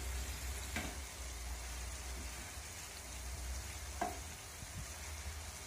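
Bitter gourd sizzling in a thick sauce in a frying pan while a wooden spatula stirs it, with two sharp knocks of the spatula against the pan, one about a second in and a louder one a few seconds later.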